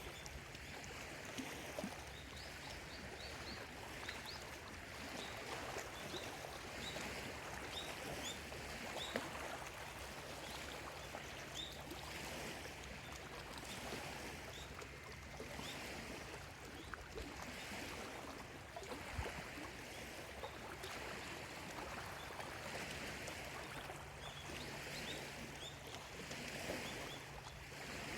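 Small lake waves lapping on the shore, washing in every two to three seconds, with many short bird chirps throughout.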